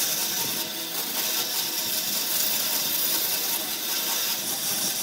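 A woodworking power tool running steadily against wood, a continuous noisy grind with no break.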